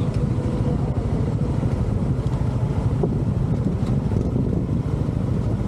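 Wind buffeting the camera microphone on a moving Honda ADV 160 scooter, a steady low rumble with the scooter's engine running underneath.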